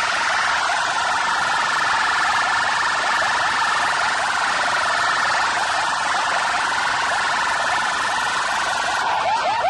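A loud, fast-warbling siren-like electronic tone held steadily over a wide hiss, played through a large DJ sound system at a sound competition. Near the end, short repeated upward sweeps begin.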